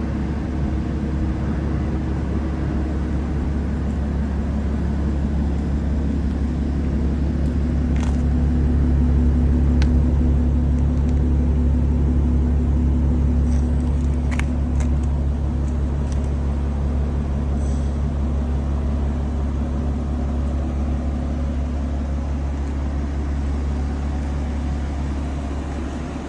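Audi B8.5 S5's supercharged 3.0 V6 idling steadily through an AWE Touring Edition cat-back exhaust (mid muffler, X-pipe, Helmholtz resonators): a deep, even exhaust rumble. It grows a little louder for a few seconds in the middle, then eases back.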